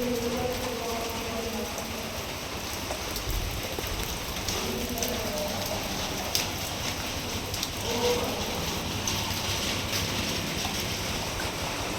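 Rain falling steadily, with many individual drops striking hard surfaces close by. Faint low tones rise out of it briefly near the start, midway and about two-thirds in.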